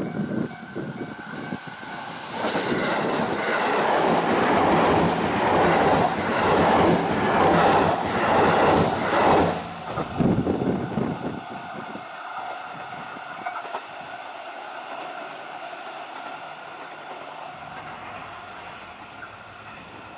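Electric multiple-unit commuter train passing at speed, its wheels clattering rhythmically over the rail joints. The sound is loudest in the first ten seconds, drops off suddenly about ten seconds in, then fades away as the train recedes.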